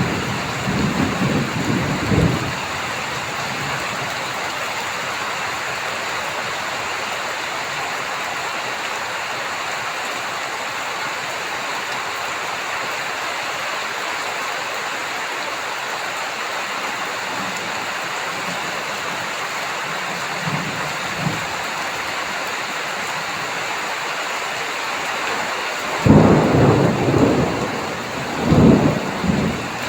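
Heavy rain falling steadily, with thunder rumbling in the first two seconds, faintly about twenty seconds in, and loudly twice in the last four seconds.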